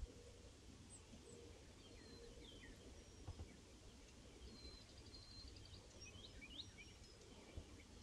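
Quiet outdoor ambience with faint bird chirps scattered throughout and a short, rapid bird trill about five seconds in.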